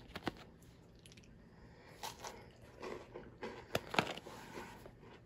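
Biting and chewing a Kit Kat wafer bar combined with graham cracker: a few small clicks at first, then irregular crunches, the sharpest about four seconds in.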